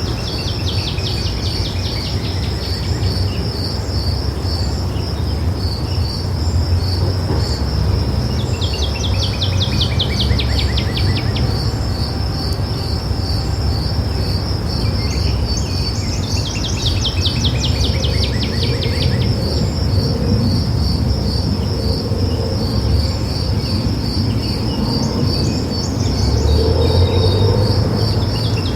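Outdoor ambience: a steady insect chorus of cricket-like chirps pulsing a few times a second, with a bird's fast falling trill breaking in about four times, each lasting two or three seconds. Under it runs a steady low rumble.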